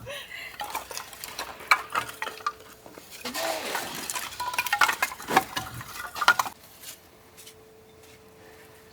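Repeated knocking and clattering of hard objects being handled and set down, which stops about six and a half seconds in, leaving a faint steady hum.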